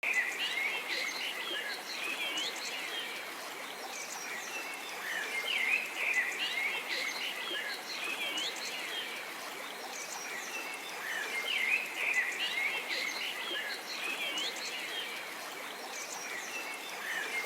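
Nature ambience of many small birds chirping, with short curved whistles and trills over a steady background hiss.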